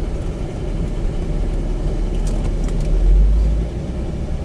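Car cabin noise as the car drives slowly: a steady low engine and road rumble, swelling louder for about half a second a little after three seconds in.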